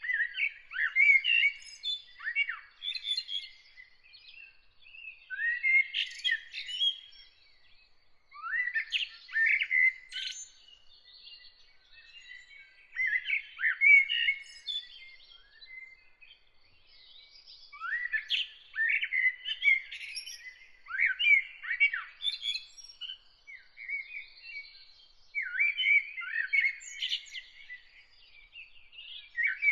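Songbird singing in repeated phrases of a second or two, each a quick run of chirps and falling whistles, with short pauses between them.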